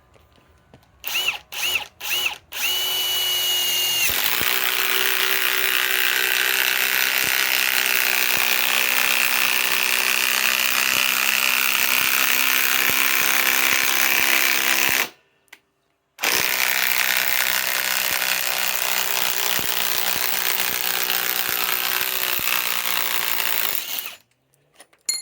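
Ryobi PSBIW25 compact impact wrench driving a lag screw. It gives three short trigger blips with the motor whining, then hammers steadily under load for about eleven seconds. It stops for about a second, then runs again for about eight seconds.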